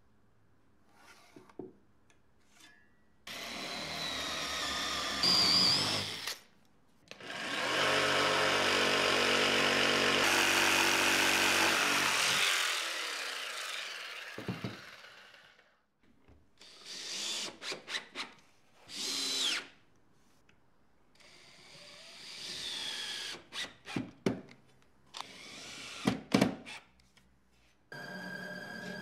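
A power tool motor run in several bursts: a short run, then a longer run that winds down with a falling pitch, then several brief runs with clicks and knocks.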